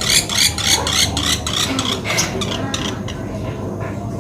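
Pelatuk beras bird calling: a rapid series of sharp, high repeated notes, about three a second, which break off after about a second and a half into fainter scattered ticks.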